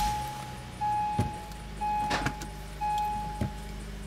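2008 Acura MDX's 3.7-litre V6 idling just after start-up, while the car's warning chime beeps four times, about once a second, stopping near the end. A few sharp clicks sound between the beeps.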